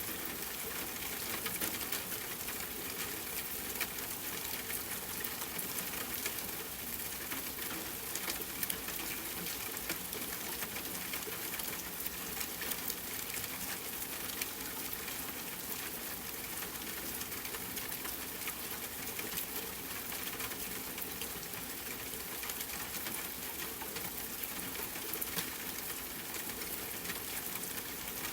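Steady rain, an even hiss with fine crackling drops.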